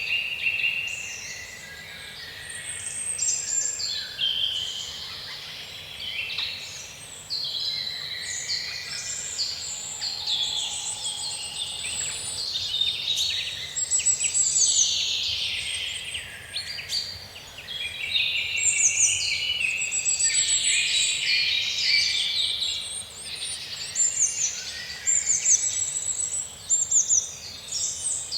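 Many small songbirds chirping and singing at once: a dense, continuous chorus of overlapping high chirps and quick trills.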